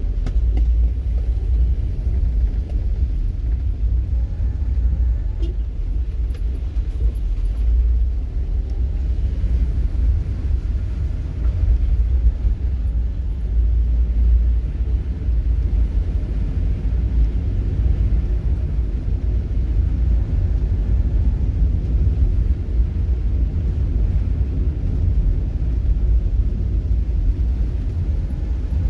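Steady low rumble of a moving vehicle, like road and engine noise.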